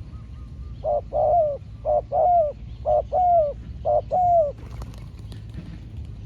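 Spotted dove cooing: four phrases about a second apart, each a short note followed by a longer, falling coo.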